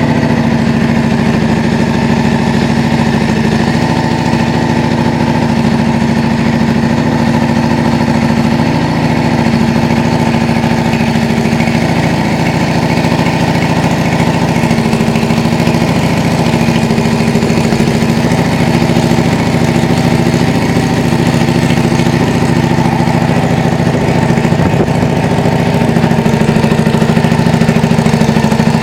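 Yamaha Drag Star 400 V-twin idling steadily through an aftermarket custom muffler, getting slightly louder near the end.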